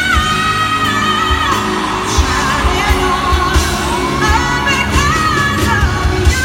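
Live singing of a pop ballad over band accompaniment with a steady beat, a long held note sliding between pitches and a second voice coming in about four seconds in.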